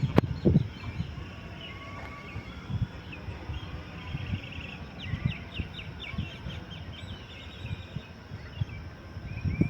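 Small birds chirping and trilling, with a quick run of chirps about halfway through, over a low steady background rumble and a sharp click at the very start.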